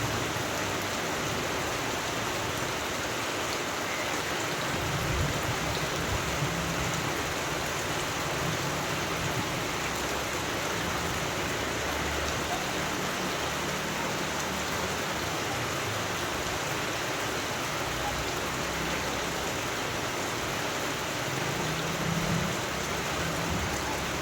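Steady rain falling, an even hiss with no let-up, with faint low rumbles swelling about five seconds in and again near the end.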